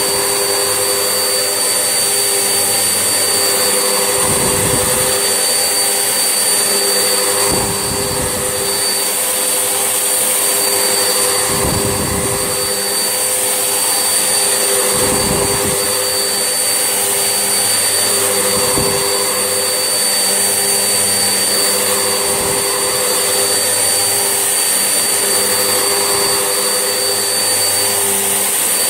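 Vax Essentials vacuum cleaner running steadily with a high motor whine. A low rumble swells and fades every three to four seconds.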